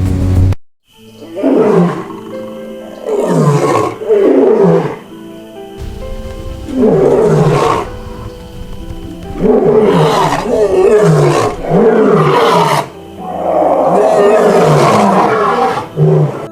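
Lions roaring, about six loud roars one after another, each sliding down in pitch, over background music with long held tones.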